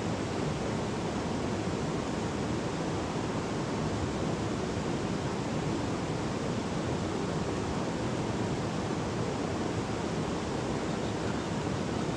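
River water rushing steadily, a constant even roar of flowing water.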